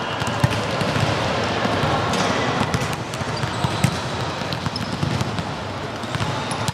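Volleyball play in a gymnasium: the ball struck sharply twice, about half a second in and again near four seconds, with smaller knocks over a steady background of hall noise.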